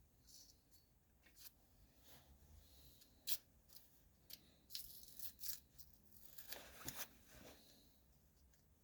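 Faint handling noise of small metal hardware: scattered light clicks and taps as nuts and a washer are fitted by hand. The sharpest click comes about three seconds in, with a cluster of taps and rustling between about five and seven seconds.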